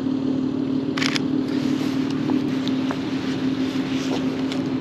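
Acura TL's engine idling as a steady, even hum. About a second in there is one short, sharp click of the camera's shutter.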